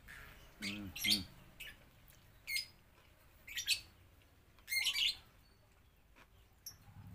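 Bird chirps: four short, sharp, high calls spread a second or so apart. A brief low voice-like sound comes about a second in.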